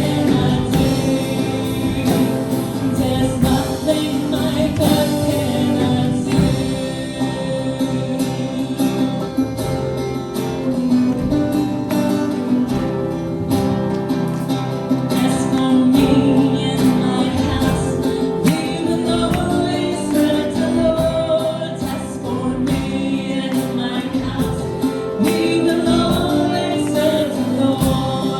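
A worship team singing a gospel song as a group, with instrumental accompaniment that includes guitar.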